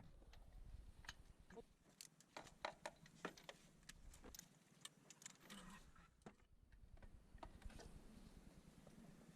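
Faint, irregular clicks and light clinks, some close together and some a second or more apart, over a low rumble.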